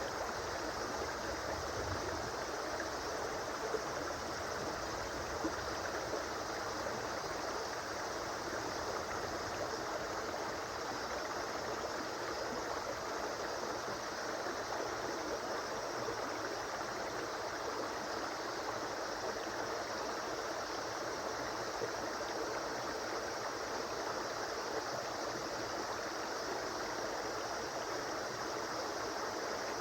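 A river or stream flowing, a steady rushing of water.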